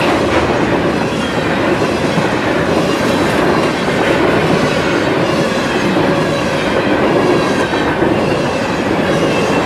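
Freight train's covered hopper cars rolling past close by: a steady rumble of steel wheels on rail with clacking.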